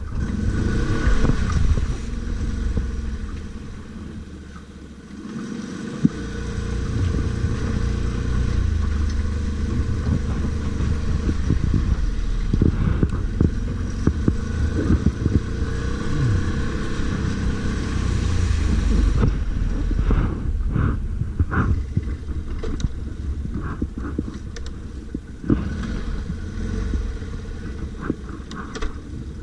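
Stels Guepard 850 ATV engine running while riding off-road, the revs rising and falling. The engine sound dips a few seconds in and then picks up again, with scattered knocks and clatter throughout.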